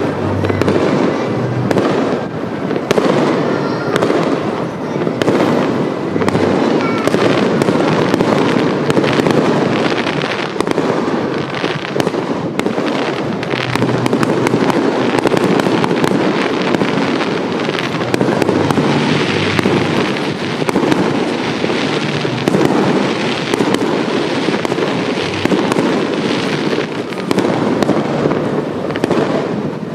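Fireworks display: a dense, continuous barrage of shells bursting and crackling, with no pause between bursts.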